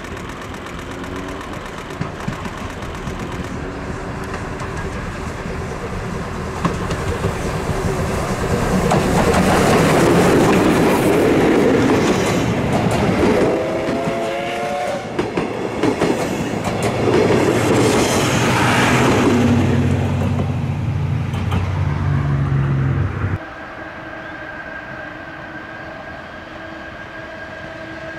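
A train passing close by, its wheels clattering over the rail joints as it grows loud, with a short horn blast around the middle. The loud passing cuts off abruptly near the end, leaving a quieter steady hum.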